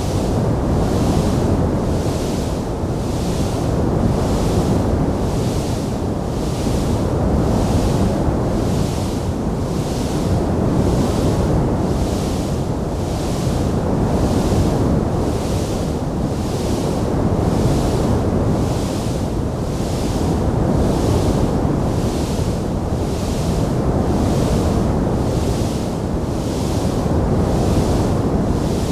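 Wood fire burning in a fireplace: a steady rushing roar, with a higher hiss that swells and fades evenly about once a second.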